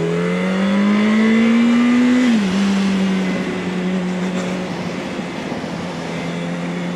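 Yamaha R1's inline-four engine pulling up through the revs for about two seconds, then dropping in pitch at an upshift and holding a steady note.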